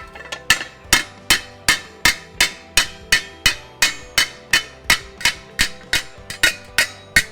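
Hand hammer striking sheet steel in a steady run of sharp blows, about three a second, shaping a repair panel.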